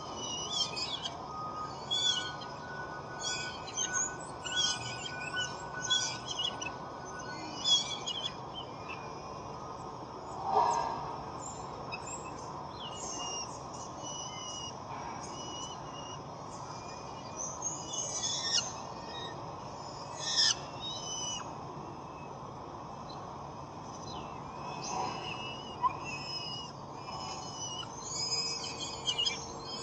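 Small birds chirping repeatedly in short, high notes, with one lower, longer call about ten seconds in, over a faint steady whine.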